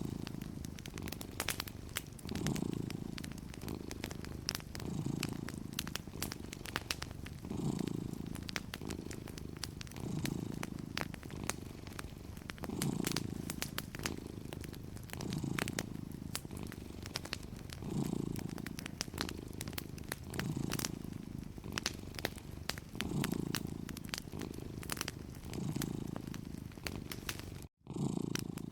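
Domestic cat purring steadily, the low purr swelling and easing about every two and a half seconds with its breathing, over fireplace crackling as scattered sharp pops. The sound cuts out for a split second near the end.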